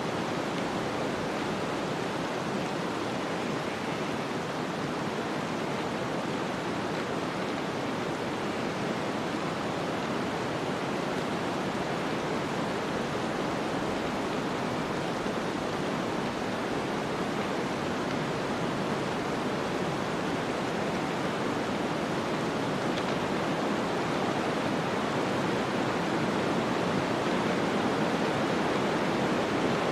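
Steady rushing noise of a snowstorm: wind-driven snow as an even hiss with no distinct events, swelling slightly near the end.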